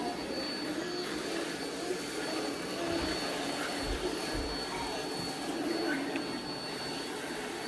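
Bissell SpinWave robot vacuum running steadily with a thin high whine as it sucks up Orbeez gel beads, with a few low thuds around three to four seconds in.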